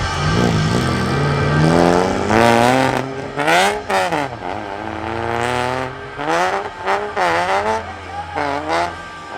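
Car engine revved repeatedly: its pitch climbs for a couple of seconds, then drops and rises again in a series of throttle blips. Another engine runs steadily underneath.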